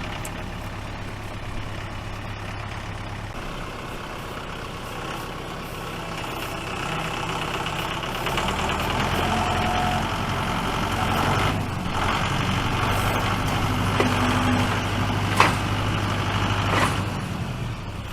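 Tractor engine running steadily, growing louder about eight seconds in as it works harder, with a few short knocks in the last seconds.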